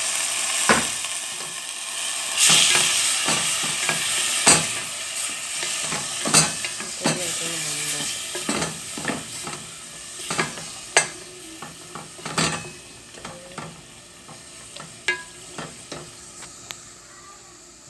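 Chopped raw chicken breast sizzling as it fries in a metal pot, stirred with a wooden spatula that knocks and scrapes against the pot many times. The sizzle is loudest a few seconds in and dies down over the second half.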